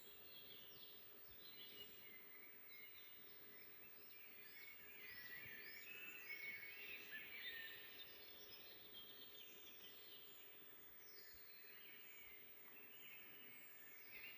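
Faint forest birdsong: several small birds chirping and trilling over one another, busiest in the middle.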